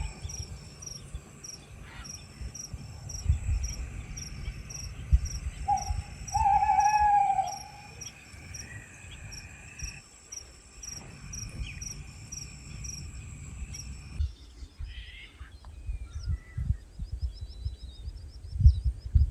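Outdoor ambience: insects chirping in a steady high pulse, about three chirps a second, that stops about fourteen seconds in, with a lower falling animal call, likely a bird, around six to seven seconds in. Low wind rumble runs underneath.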